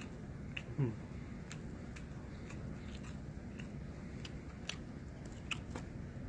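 Eating sounds: scattered sharp clicks of chewing and chopsticks on food while a mouthful of pork bulgogi is eaten. A short falling vocal hum comes about a second in.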